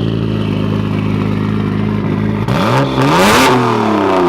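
Straight-piped Nissan Skyline GT-R's straight-six running steadily at idle, then revved once about two and a half seconds in, the pitch rising sharply and falling back.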